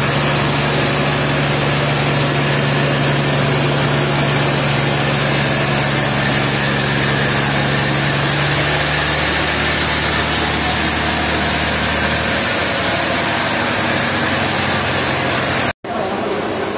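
Sawmill machinery running: a steady engine hum under a dense, even noise. The low engine note fades away about twelve seconds in, and the sound drops out abruptly near the end before going on a little quieter.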